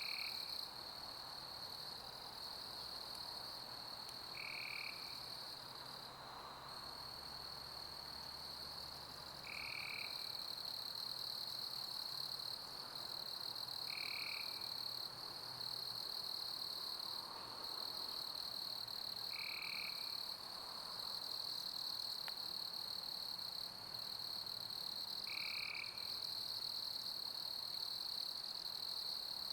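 Chorus of summer crickets chirping steadily in a high, continuous trill over a soft, even hiss of pink noise. A short, lower chirp repeats about every five seconds.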